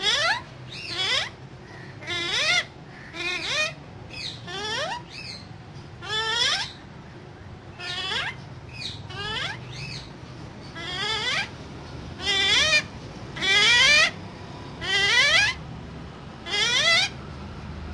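Pet Alexandrine parakeet calling again and again: a series of short, harsh calls, each rising steeply in pitch, roughly one a second.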